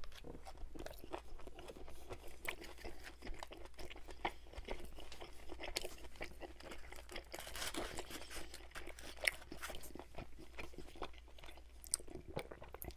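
Close-miked chewing of a mouthful of stir-fried beef and broccoli, full of small wet mouth clicks.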